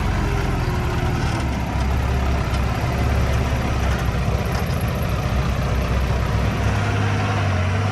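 Engine of an earthmoving machine (the miniature bulldozer or the dump truck) running steadily, its pitch rising a little about seven seconds in.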